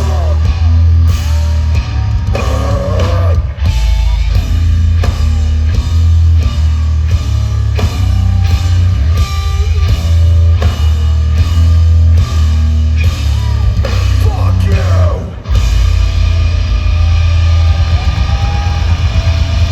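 Hardcore band playing live and loud: heavily distorted guitars and bass over pounding drums. The band breaks off briefly about fifteen seconds in, then comes back in.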